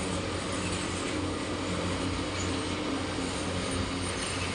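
Train running along the platform: a steady low drone with a broad, even rumble over it.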